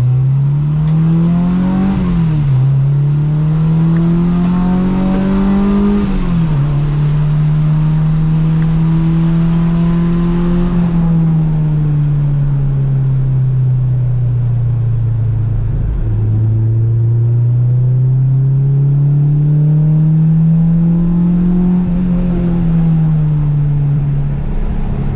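Honda Civic's engine pulling hard on track, its pitch climbing and dropping sharply at upshifts about two and six seconds in. It then winds down slowly as the car slows, and climbs again to another shift near the end. A hiss under the engine stops about halfway through.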